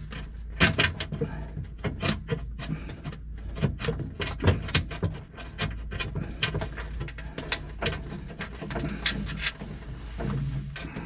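Irregular small clicks, taps and knocks of hands fumbling with small parts and fittings in a tight space, over a steady low hum.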